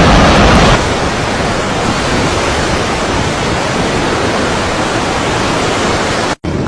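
Loud, steady rushing of water. It drops a step in loudness about a second in and cuts off abruptly near the end.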